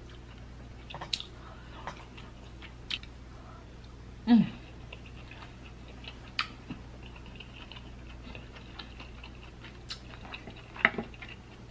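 Close-miked chewing of king crab meat: soft, wet mouth clicks and smacks scattered every second or two, with a brief low hum from the eater about four seconds in.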